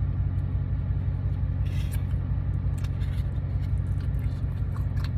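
Steady low hum of a car's idling engine heard inside the cabin, with a few faint clicks and a brief rustle about two seconds in.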